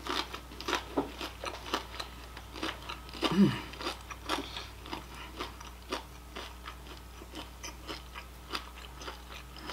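Close-up chewing of crunchy oven-fried breaded shrimp: a run of crisp crunches, thinning out somewhat in the second half, with a short hummed "mmm" about three and a half seconds in.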